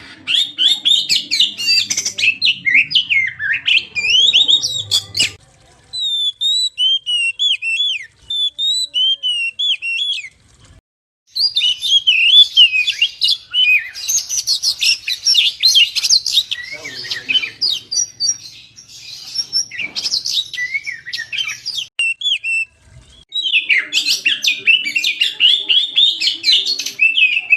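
Oriental magpie-robin (kacer) singing a fast, varied run of high chirps and whistles, in long bursts broken by short pauses about 5, 10 and 23 seconds in.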